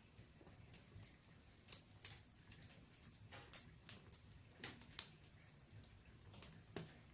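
Firewood burning in a fireplace, crackling faintly with irregular pops and snaps, a few each second, the sharpest ones about halfway through.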